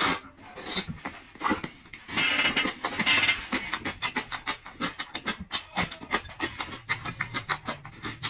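Close-miked eating sounds: chewing with a quick run of wet mouth clicks and smacks, and a longer noisy stretch of crunching about two seconds in.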